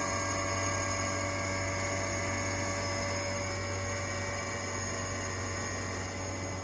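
A machine running steadily, with a low electric hum under several high, unchanging whining tones, as from a motor-driven fan or compressor.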